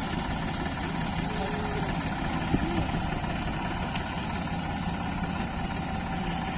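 Diesel engine idling steadily, a low even drone with no revving.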